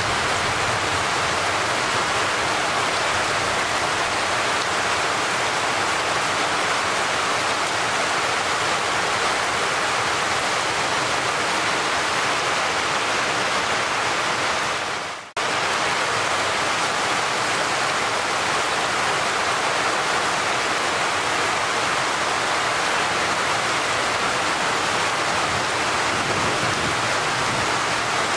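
Heavy tropical rain falling in a steady hiss. About halfway through it fades away and then cuts back in abruptly.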